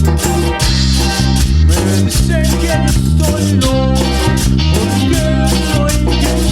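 Instrumental passage of a norteño-style band: electric bass, drums and bajo quinto, with a melodic lead line over a steady beat.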